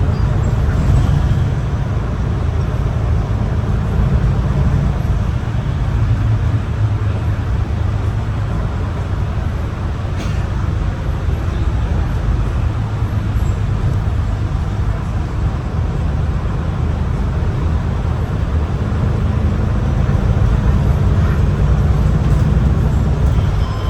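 Heard from inside the cabin, the diesel engine of a MAN ND323F double-decker bus runs under way with road noise in a steady low drone, and a faint click about ten seconds in.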